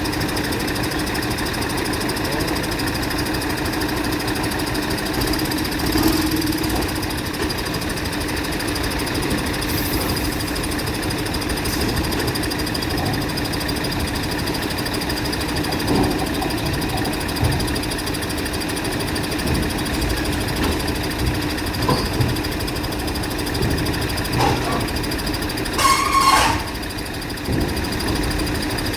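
An engine idling steadily, with a few faint clicks and a short, higher sound near the end.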